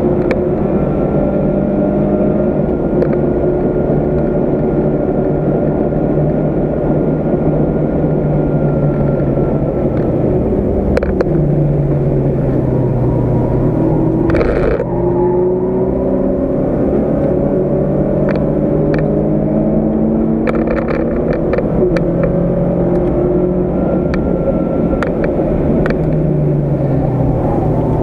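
Volkswagen Golf MkII GTI 16v's four-cylinder engine at racing revs, heard from inside the car, its pitch climbing under acceleration and falling back when the revs drop, over steady wind and tyre noise. A few short clicks sound around the middle.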